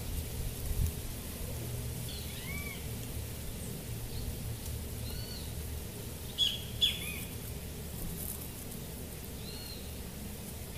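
Small birds calling outdoors: about half a dozen short arched chirps, scattered at intervals, over a steady low background rumble.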